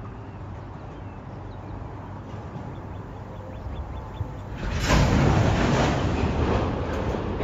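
Double-stack container freight cars rolling slowly over a steel truss bridge: a low rumble that suddenly grows much louder about five seconds in, then eases back.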